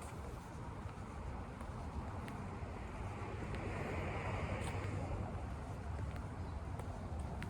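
Suburban street ambience with a steady low rumble. A car passes: its hiss swells and fades about three to five seconds in.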